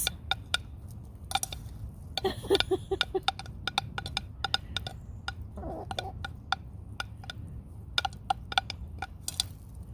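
Hens pecking food off a plate: a quick, irregular patter of beak taps and clinks against the plate, with a few short clucks.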